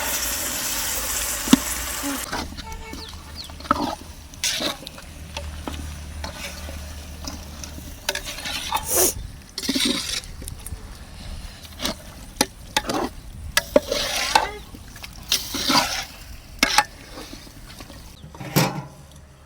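Food frying in oil in a cooking pot, a bright sizzle that cuts off about two seconds in. Scattered knocks and scrapes of a utensil stirring in the pot follow.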